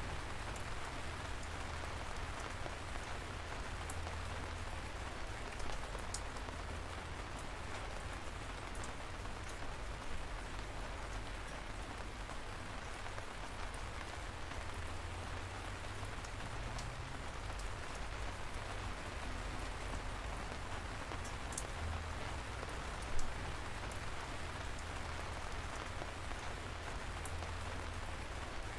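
Steady light rain: an even hiss of falling drizzle with scattered individual drops ticking, and a low rumble underneath. One drop lands louder about three-quarters of the way through.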